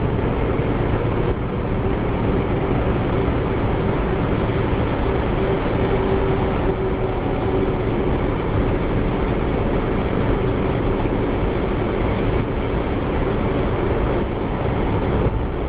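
Steady road and engine noise heard from inside a car driving on a motorway, with a faint steady hum under the rush of the tyres.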